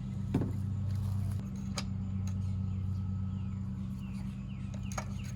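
Birds chirping in runs of short, quick falling chirps over a steady low mechanical hum, with a few sharp clicks.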